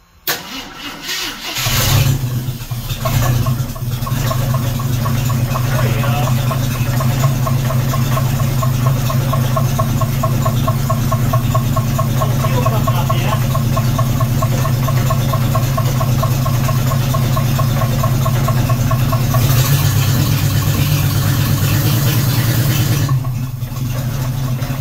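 1976 AMC Gremlin engine, long stored, cranking briefly on a jump pack, then catching and running steadily, with a fast, even ticking in the sound. Near the end it runs louder for a few seconds, then settles.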